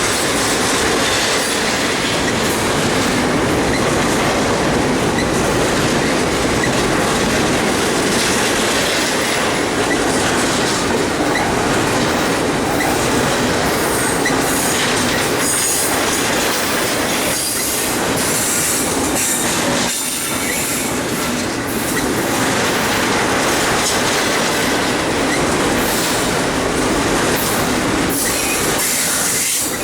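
A train's cars rolling past at close range, steel wheels clacking over rail joints and squealing on the rails in a steady, loud rumble.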